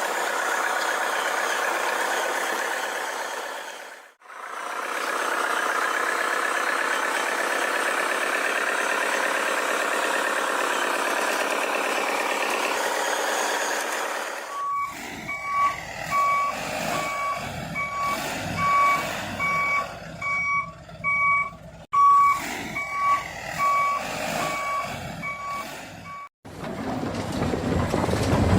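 A steady buzzing whine, with a short break about four seconds in. It gives way at about the midpoint to a remote-control toy truck's reversing beeper, beeping steadily at about one and a half beeps a second. The beeping stops abruptly near the end.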